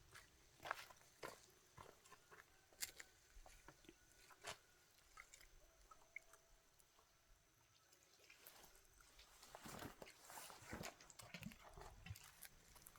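Faint, scattered clicks and light taps of small hand work on motorbike parts, with a busier run of knocks about ten seconds in.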